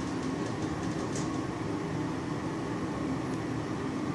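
Steady hum and rumble of a KONE EcoDisc machine-room-less passenger lift car in motion, heard from inside the car.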